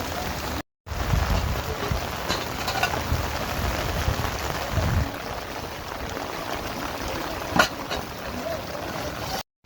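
Steady rain with running water, a continuous patter and hiss. One sharp drip or tap about three-quarters of the way through, and two very short dropouts where the sound cuts out completely.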